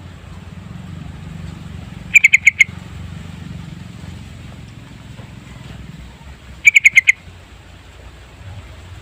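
Sooty-headed bulbul calling: two quick bursts of four or five rapid, loud notes, about four and a half seconds apart, over a low steady background rumble.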